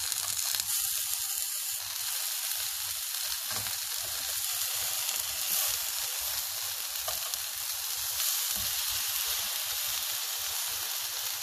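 Eggplant slices frying in olive oil in a hot pan: a steady sizzle.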